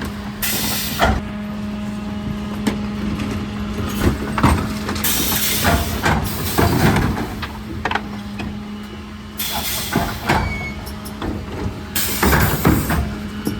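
Mercedes Econic refuse truck at work: a steady engine hum with four short bursts of air hiss and scattered knocks and clatters.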